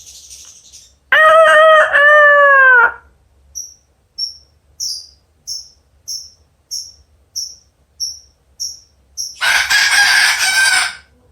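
Cockatoo imitating a rooster's crow: one crow-like call about a second in, lasting about two seconds and dropping in pitch at the end. It is followed by a steady run of about ten short, high chirps, and then a harsh, loud squawk near the end.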